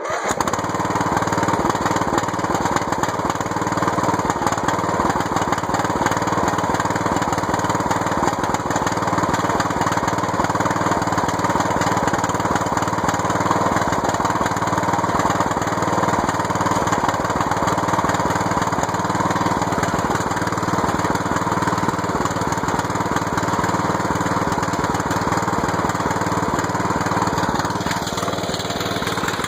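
Lawn mower engine running steadily, its tone shifting slightly near the end.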